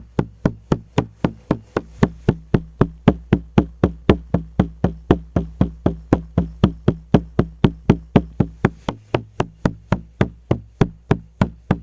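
Frame drum (buben) beaten in a steady, even rhythm of about four strokes a second, with the drum's low tone ringing on under the strokes.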